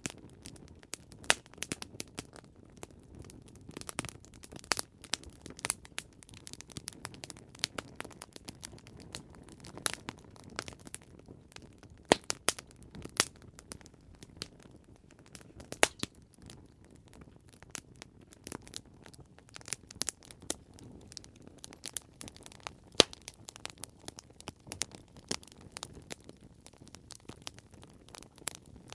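Campfire crackling: irregular sharp pops and snaps of burning wood over a low, steady rush of flame.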